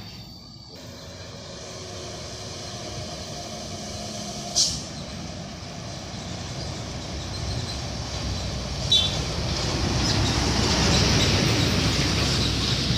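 Heavy dump truck's diesel engine labouring, growing steadily louder as it approaches. Two short sharp air-brake hisses come about four and a half seconds in and again about nine seconds in.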